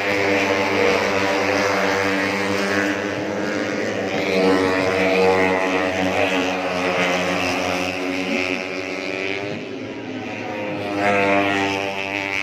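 Racing four-stroke 150cc underbone (bebek) motorcycles running at high revs. Several engine notes overlap and shift in pitch, with a brief dip and then a rise near the end.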